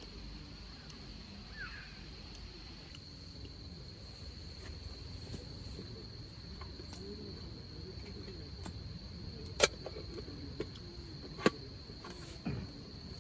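Steady high trill of crickets, with two sharp pops from a hardwood campfire near the end and a few fainter ticks, over faint distant voices.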